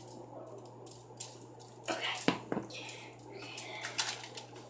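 Small clicks and taps of soap containers and a mixing utensil being handled, with a cluster of sharper knocks about two seconds in and another just before four seconds.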